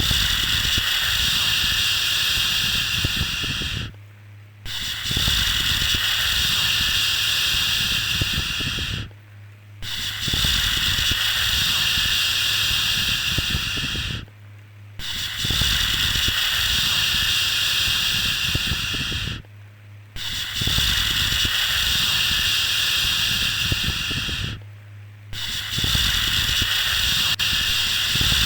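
Long shushing 'shhh' sounds for soothing a baby to sleep, each lasting about four and a half seconds and separated by brief pauses of under a second, repeating evenly about six times. A faint low hum runs underneath.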